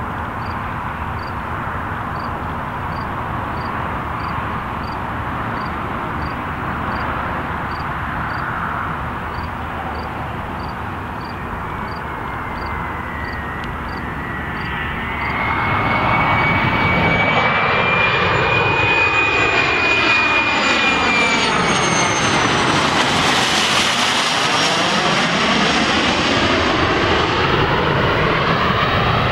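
Private business jet's turbofan engines on landing approach: a distant steady rumble grows louder about halfway through as the jet nears, with a high turbine whine that drops in pitch as it passes, loudest about two-thirds of the way in. Faint high ticks about every two-thirds of a second are heard under the first half.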